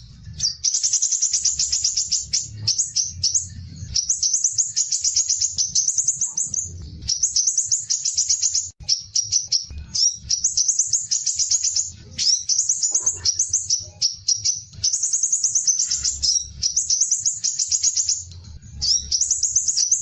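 A songbird singing fast, high trilled phrases, each lasting a second or two and repeated over and over with short breaks, as in a masteran recording used to teach caged songbirds. A faint low hum runs underneath.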